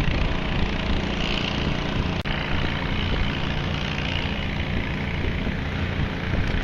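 An engine running steadily at idle, a low hum with noise around it.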